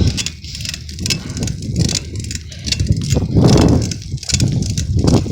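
Wind rumbling and buffeting on the microphone while riding a bicycle, swelling about three seconds in, with light rattles from the bike.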